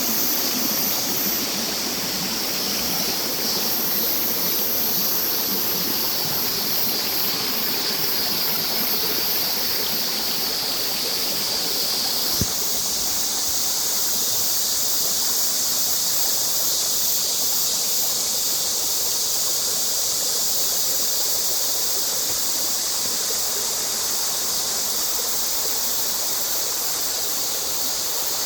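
Mountain valley stream rushing steadily over rocks. A brief click about twelve seconds in, after which the rushing sounds brighter and thinner.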